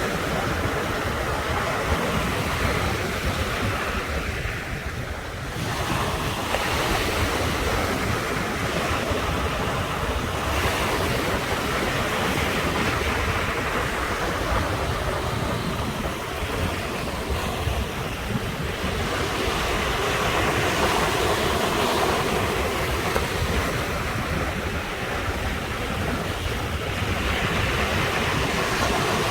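Ocean surf: waves breaking and washing up the shore in a continuous rushing wash that swells and eases, dipping briefly about five seconds in.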